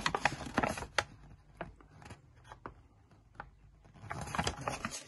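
Light clicks and rattles of small metal hardware and tools being handled while a screw and nut go into an RC car's steering assembly, busiest in the first second and again near the end, with a few single ticks between.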